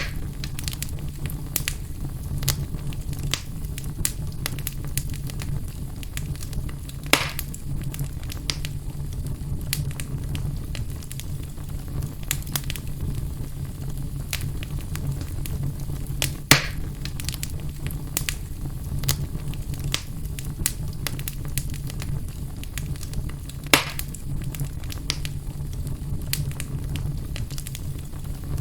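Fire burning in a fireplace: a steady low rumble with constant small crackles and three louder sharp pops spread through it.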